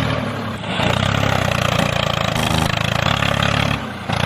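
Small engine of a homemade mini tractor running steadily, its sound dipping briefly about half a second in and again near the end.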